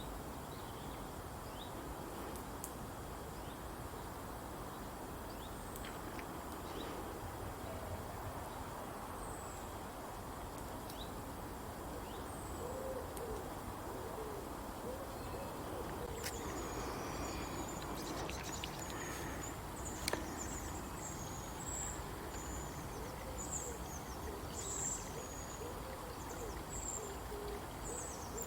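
Outdoor birdsong: low, repeated hoot-like calls from about halfway through, joined by a run of high thin chirps from other birds, over a steady background hush.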